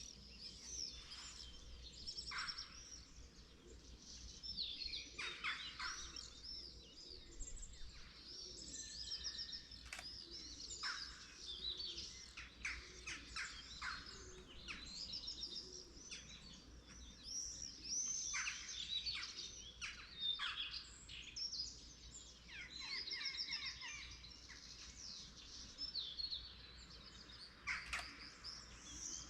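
Morning chorus of several birds chirping and trilling at once, with quick downward-sweeping calls and rapid trills overlapping throughout, over a faint steady low rumble.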